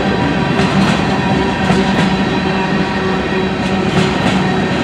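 Freight train of open-top coal cars rolling past: a steady rumble and rattle of steel wheels on rail, with a steady humming tone underneath and a few sharp clacks of wheels over rail joints.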